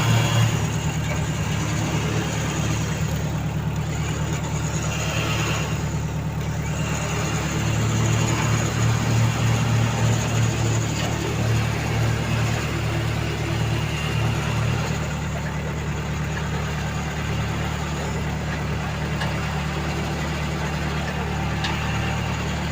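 A vehicle engine idling steadily with a low throb, which grows stronger for several seconds in the middle.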